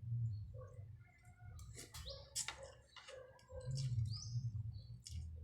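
Small birds chirping: short, high calls and quick sweeping notes, scattered irregularly, over a low steady rumble.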